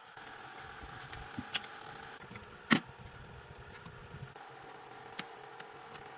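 Two sharp clicks, about a second and a half in and nearly three seconds in, with a few fainter ticks over a faint steady hum.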